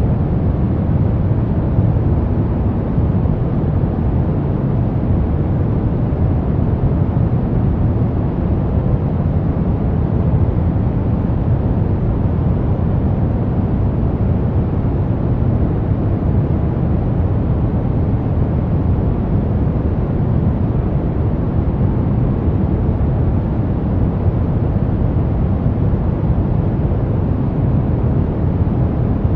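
Brown noise: a steady, deep rushing hiss with most of its weight in the bass and little in the highs.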